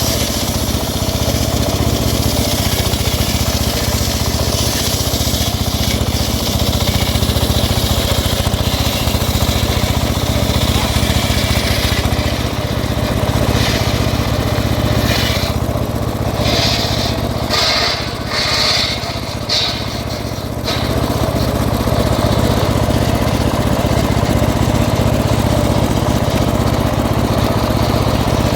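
Engine-powered wood saw running steadily. Roughly halfway through, for several seconds, a higher-pitched sound comes and goes over the engine before it settles back.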